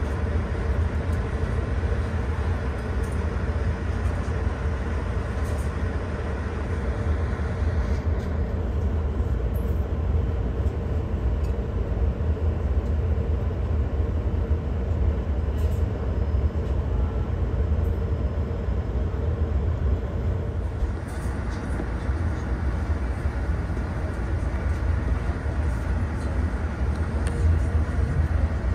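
Ride noise of a Škoda 69Er electric multiple unit running along the line: a steady low rumble of wheels on rail. The higher hiss drops away for about thirteen seconds from about eight seconds in.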